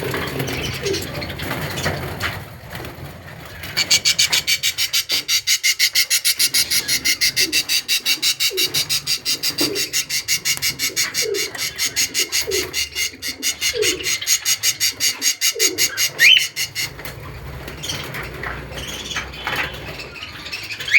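Birds calling: a fast, even rasping pulse, several a second, from about four seconds in to about seventeen seconds, over short low falling calls, with a few high chirps near the end.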